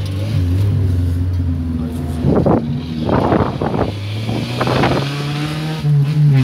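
Fiat Uno engine running through a straight-pipe exhaust, with three short loud rasping bursts around the middle, then revs climbing steadily as it accelerates near the end.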